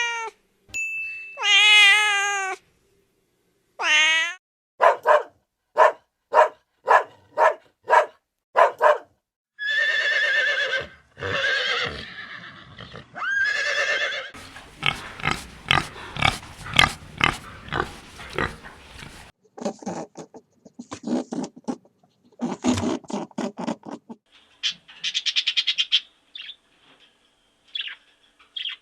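A string of different farm and pet animal calls, one short clip after another: first a few drawn-out pitched calls, then a run of short calls about two a second, then a long stretch of dense, rough calls, and more scattered calls near the end.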